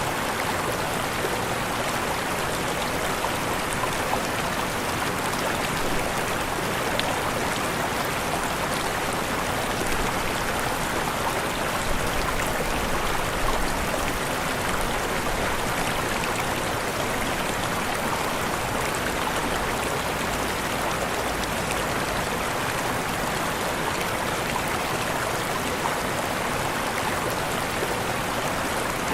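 Waterfall: steady rushing, splashing water with no change in level.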